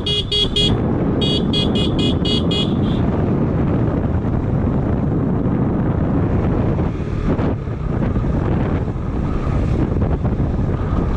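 A vehicle horn sounded in a quick series of short beeps, two runs of about six a second with a brief break between them. This gives way to steady wind and road noise from the moving motorcycle.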